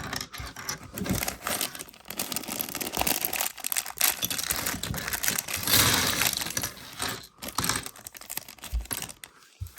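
Crinkly plastic packaging of a LEGO set being handled and torn open, a dense crackling with many small clicks.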